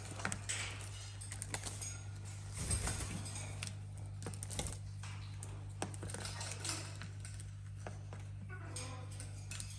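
Irregular light taps and clicks from parrots playing, their beaks and claws knocking on toys and hard surfaces, over a steady low hum.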